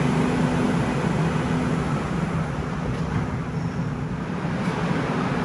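Seoul Subway Line 9 electric train: a steady rumble with a low hum, easing slightly about two seconds in.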